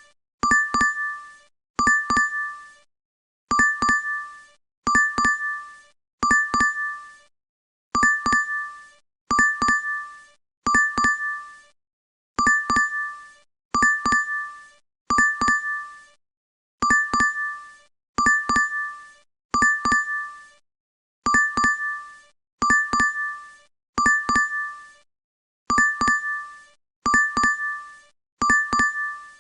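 DoorDash app notification sound, a short bright chime of a few quick strikes, looping over and over about every one and a half seconds.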